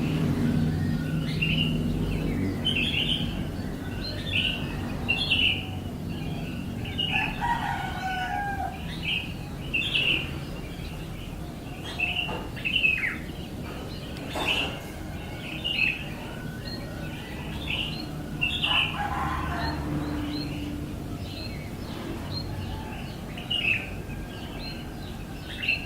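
Bird chirping: short high chirps repeated every half second to a second, many sliding downward in pitch, with a few lower calls now and then.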